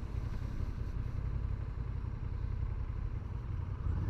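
Motorcycle running steadily while being ridden, a low, even rumble heard from the rider's helmet microphone.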